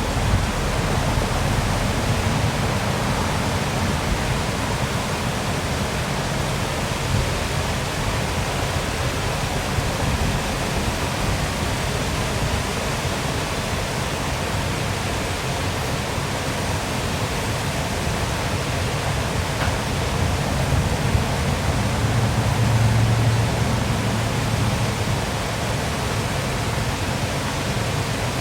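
Waterfall with water pouring steadily, making a constant rushing noise. A deeper rumble swells slightly about 22 seconds in.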